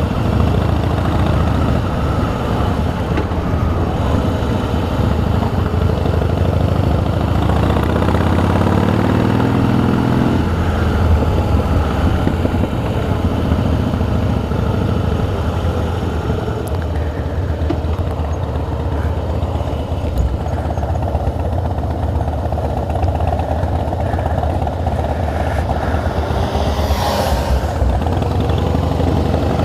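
Harley-Davidson V-twin motorcycle engine running under way, with wind noise from riding. The engine pitch climbs steadily for about the first ten seconds, then drops as it shifts up, and settles into a steady cruise.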